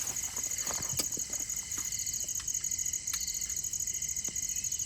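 Night insects chirping in a steady, fast pulsing trill high in pitch, with a few light clicks and knocks, most of them in the first two seconds.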